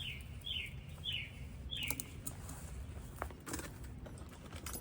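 A bird calling four short falling notes in the first two seconds, followed by a few light clicks and knocks over a steady low hum.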